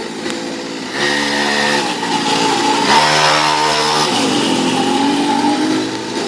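Small petrol engine of a mini motorcycle (pocket bike) running under throttle. It picks up about a second in, and its pitch falls and climbs again as the rider eases off and opens the throttle.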